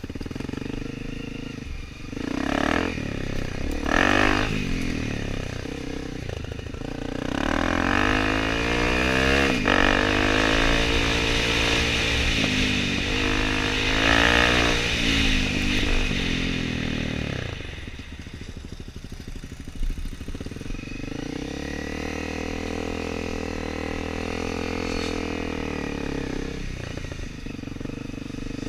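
Dirt bike engines running and revving off-road, the pitch climbing and falling several times as the bikes accelerate and back off, loudest through the middle, with a second rise and fall near the end.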